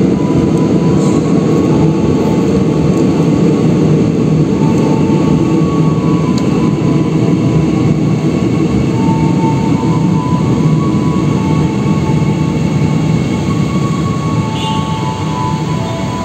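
Electric airport rail link train running along the station track: a steady rumble of wheels and running gear, with a faint high whine that comes and goes.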